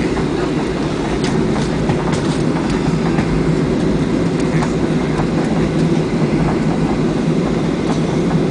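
Cabin noise of a Boeing 737-700 on the ground after landing: a steady rumble from the engines and airframe, with scattered light clicks and rattles.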